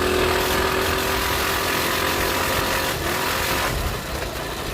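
Coleman CT200U-EX minibike's single-cylinder four-stroke engine running at a steady speed under way. The engine note drops away about three and a half seconds in.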